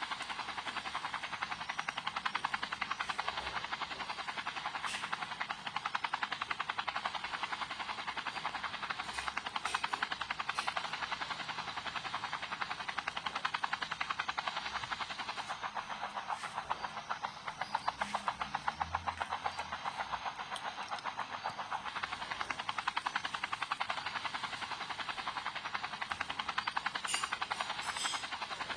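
Helicopter running, a steady, very fast chopping pulse with a hissy edge.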